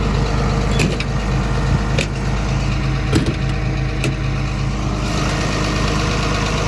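Komatsu PC210LC-10 excavator's six-cylinder diesel engine idling steadily, with four sharp knocks about a second apart in the first four seconds.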